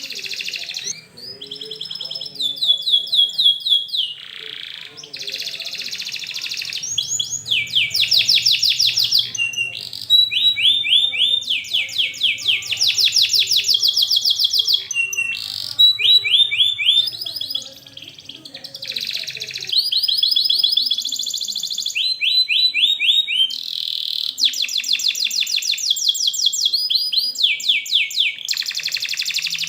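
Domestic canary singing a long, dense song: phrase after phrase of fast runs of repeated high notes and rolled trills, with only brief breaks between phrases.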